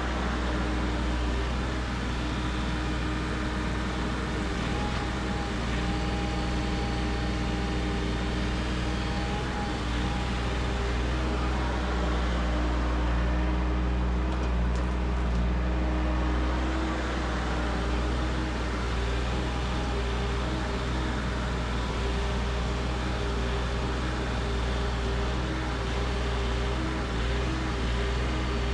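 Engine of powered sod-stripping equipment running steadily, its tone shifting a little under changing load.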